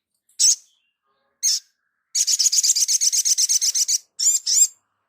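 Sogon, a sunbird, singing high and thin: two short chips, then a fast trill of about ten notes a second for about two seconds, ending with two quick swept notes.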